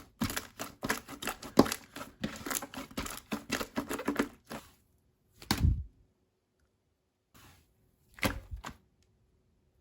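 Slime being worked by hand, giving fast crackling, popping clicks for about four and a half seconds, then two heavier squishes about two and a half seconds apart.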